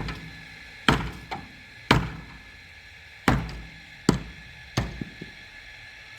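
Heavy blows struck on wood, six sharp thunks at an uneven pace of roughly one a second, then a pause near the end.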